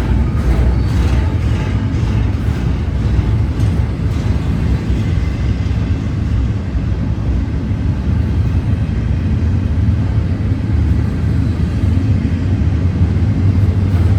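Union Pacific freight train rolling past with a loud, steady low rumble.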